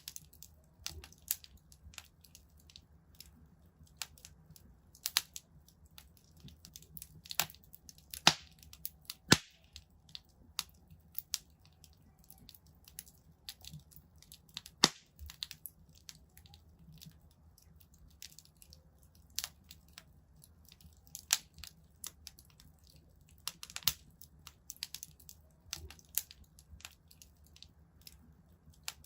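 Wood fire crackling in a fireplace: irregular sharp pops and snaps, two of them much louder about a third and half of the way through, over a faint low rumble.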